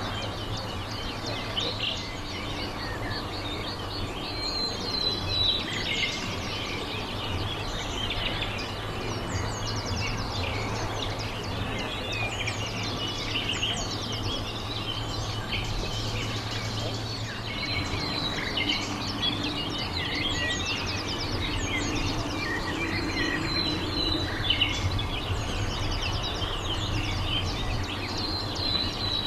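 Several small birds chirping and singing in quick, overlapping calls, over a steady low background hum.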